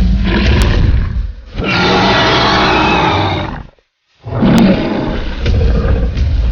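Dinosaur roar sound effect of a T-Rex: loud rasping roars, broken by a sudden brief silence about four seconds in before the roaring resumes.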